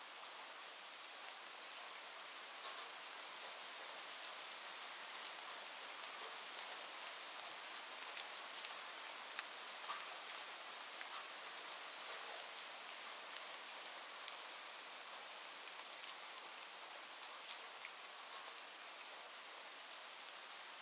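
Steady rainfall: an even hiss of rain with scattered individual drops ticking sharply through it.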